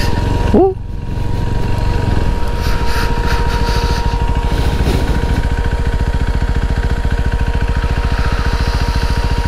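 KTM RC390 single-cylinder engine running at low revs on a slow gravel-road ride, a steady even pulse that grows very regular in the second half. A short rising chirp sounds about half a second in.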